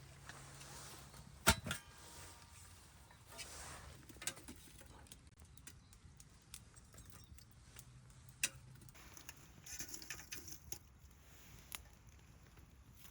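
Wood fire burning in a stainless steel fire pit, crackling with scattered sharp pops, the loudest about a second and a half in and another past the middle.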